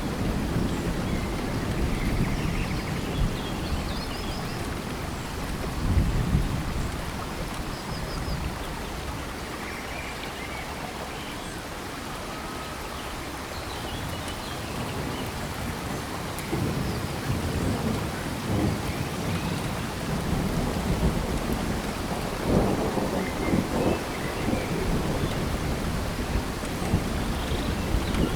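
Steady rain in a tropical forest, with low rolling rumbles of thunder at the start, about six seconds in, and again through the later part. Faint chirping calls rise above the rain now and then.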